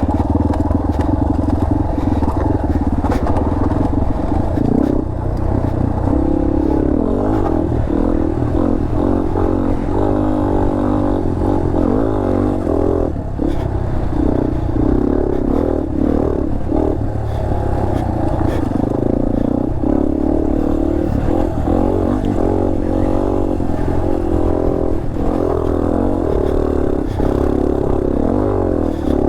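Dirt bike engine running on a rough off-road trail, its pitch rising and falling with the throttle, with scattered knocks and clatter from the ride.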